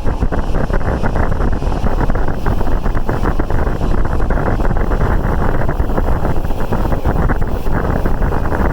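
Wind rushing over the microphone together with the steady running noise of a moving passenger train, with short irregular clicks through it.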